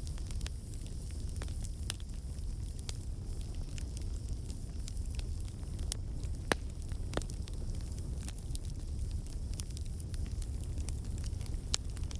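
Wood campfire burning, with irregular sharp pops and snaps from the logs over a low, steady rumble of flame.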